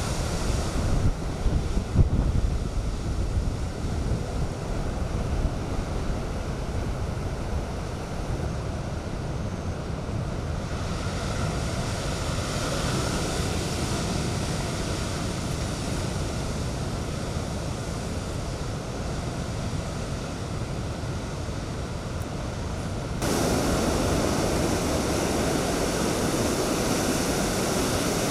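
Typhoon storm surf and strong wind: waves crashing, with wind gusts buffeting the microphone in the first few seconds. About 23 seconds in, the sound cuts to a steadier, brighter rush of water.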